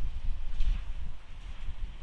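Wind buffeting the microphone, a gusting low rumble, with a few faint short higher-pitched sounds over it.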